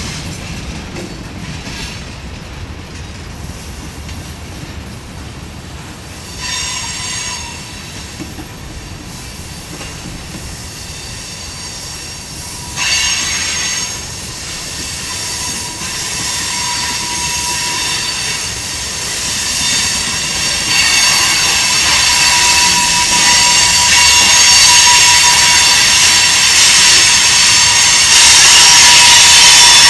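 Union Pacific mixed freight train rolling past, its covered hoppers' and tank cars' steel wheels squealing against the rails over the running rumble of the cars. There is a short squeal about six seconds in, then high-pitched squeals return about thirteen seconds in and grow steadily louder toward the end.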